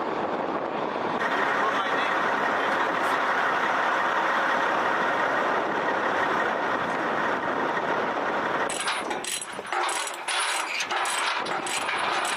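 Oshkosh HEMTT truck's diesel engine running steadily, with a noisy drone and no clear pitch. About nine seconds in the sound changes to a rapid run of clicks and crackles over a thin high whine.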